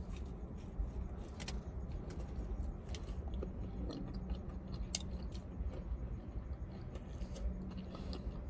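A person chewing a mouthful of chicken sandwich, with scattered short wet mouth clicks over a low steady hum.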